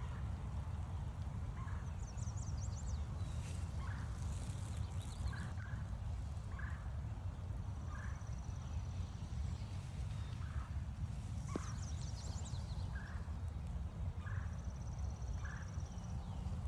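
Woodland birds singing: quick high twittering phrases twice, a thin high held note twice, and short calls repeated about once a second, over a steady low rumble.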